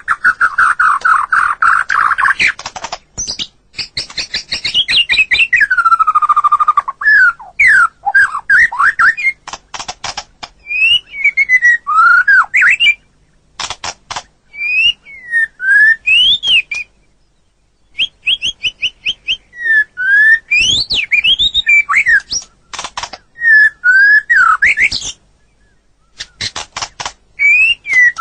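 White-rumped shama (murai batu) singing a varied song of rapid chattering rattles and loud whistled notes that slide up and down, in phrases broken by short pauses.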